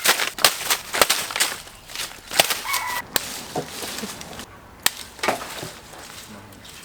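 A string of sharp, irregular clicks and taps, several a second, with a short pitched call about two and a half seconds in.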